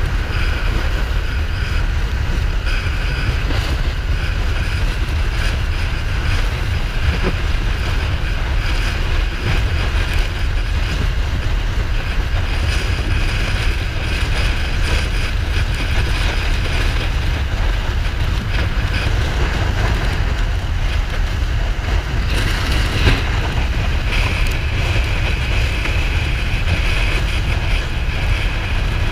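Steady wind rush buffeting the microphone on a moving Kawasaki Ninja 400 motorcycle, with the bike's engine and road noise under it.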